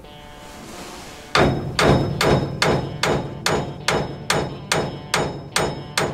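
Rapid, evenly spaced hammer blows on a steering-wheel puller, starting about a second and a half in: about a dozen strikes, roughly two and a half a second, each with a short metallic ring. The wheel is seized on its shaft, and the blows shock it to help the puller break it loose.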